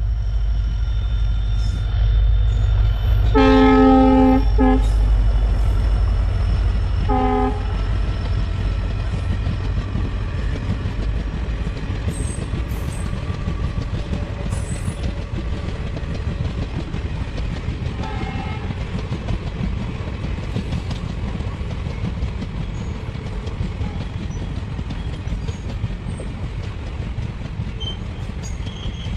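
Passenger train's locomotive horn sounds one long blast about three seconds in and a short one a few seconds later, over the steady low rumble of the train rolling along the rails. The coaches keep rumbling past, slowly getting quieter.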